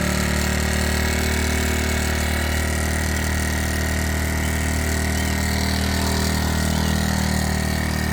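Motorcycle engine running steadily at idle, with an even, unchanging pitch.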